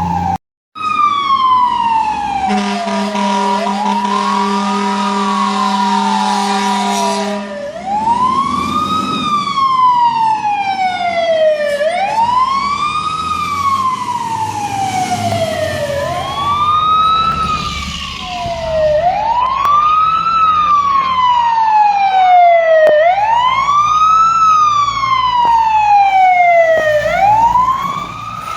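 Fire truck siren wailing up and down, about one cycle every four seconds, with a long steady air-horn blast from about two and a half to seven and a half seconds in. A brief gap of silence comes just after the start.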